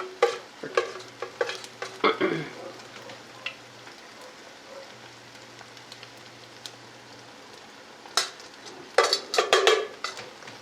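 Green onion and chicken pancake batter sizzling in a frying pan, with a utensil scraping and clicking in the pan near the start and again near the end.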